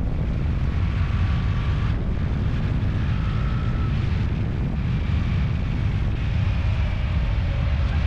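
A motor-driven machine running steadily: a heavy low rumble with faint whines that waver and come and go.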